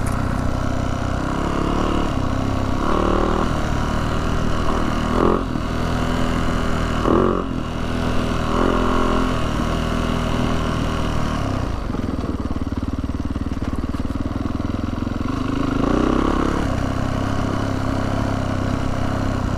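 Yamaha YZ450F dirt bike's four-stroke single-cylinder engine running while riding along a dirt road, its pitch rising and falling with the throttle several times.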